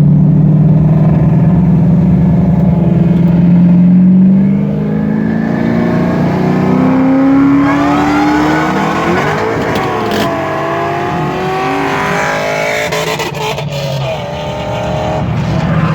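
Supercharged Ford Mustang accelerating hard on the street. Its engine note climbs steadily for about seven seconds, then higher whining tones rise, drop briefly about ten seconds in, and climb again.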